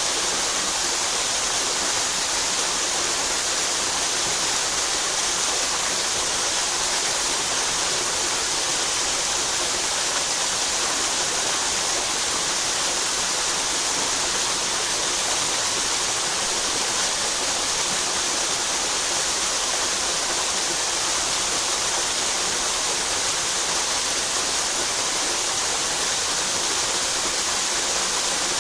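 Mountain headwater stream flowing steadily: a constant, even rushing hiss of water, brightest in the high range.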